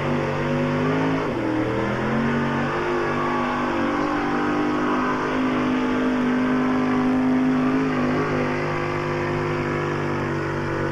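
Gas pulling truck's engine running hard at high revs: the pitch climbs at the start, dips twice in the first few seconds, then holds steady and loud.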